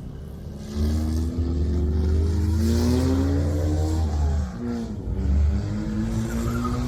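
Car engine revving: its pitch climbs for about two seconds over a heavy low rumble, falls back, blips once more about five seconds in, then settles to a steady run.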